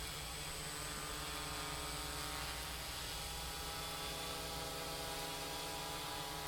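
Quadcopter's electric motors and propellers buzzing steadily as it hovers, a hum of many stacked tones.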